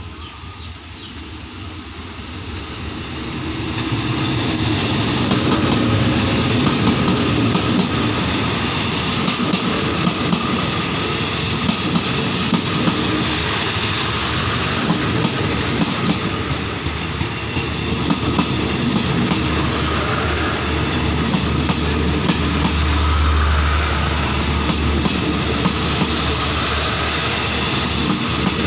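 Diesel-hauled passenger train passing close by: the locomotive grows louder over the first few seconds as it approaches, then the coaches roll past with a steady clatter of wheels over the rails. A low hum swells for a few seconds about two-thirds of the way through.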